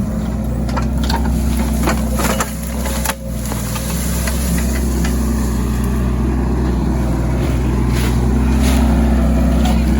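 Mini excavator's diesel engine running steadily under work, with several sharp knocks and cracks as the machine works.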